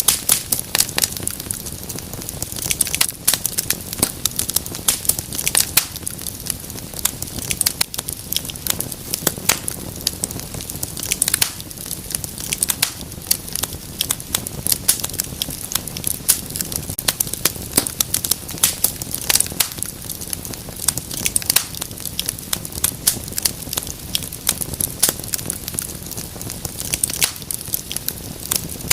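Wood fire crackling in a fireplace: a dense run of sharp pops and snaps over a steady low rumble of burning.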